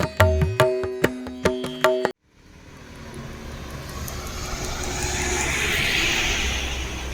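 Music with tabla strokes that cuts off abruptly about two seconds in. After a brief silence, a rushing noise over a low rumble swells and fades: a vehicle passing by.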